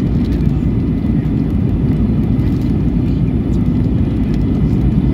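Airbus A319 cabin noise in flight: a steady, loud rumble of the engines and airflow heard from a seat in the rear cabin.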